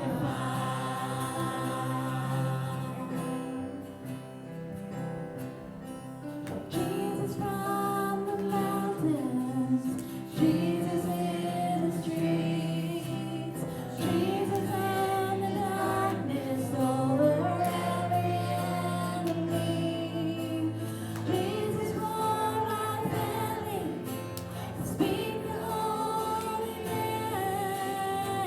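Gospel worship music: voices singing long, held notes over instrumental accompaniment.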